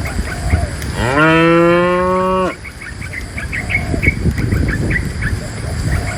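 A cow mooing once: a single call of about a second and a half that rises at the start, holds steady and breaks off sharply, with a repeated high chirping behind it.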